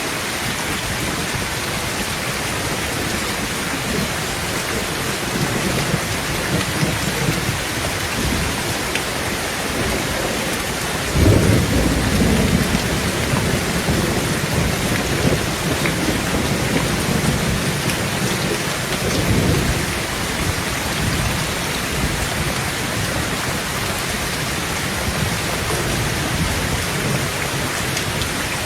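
Heavy rain falling steadily on a tin roof, with a rumble of thunder that breaks in suddenly about eleven seconds in and rolls on for several seconds, swelling again a little later.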